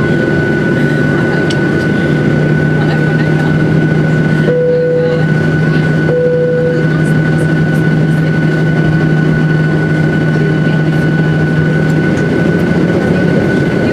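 Steady engine and airflow noise inside the cabin of a Boeing 737-800, its CFM56-7B jet engines running, with a steady high whine over a low hum. Two short tones at the same pitch sound about a second apart near the middle.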